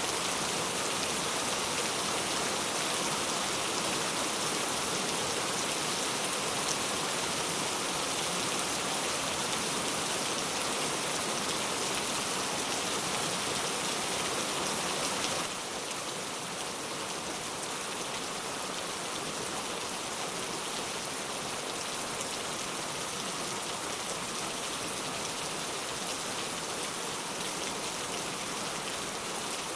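Steady, dense rain falling on a surface, an even hiss of many drops. About halfway through it drops suddenly to a slightly softer, less bright level and carries on.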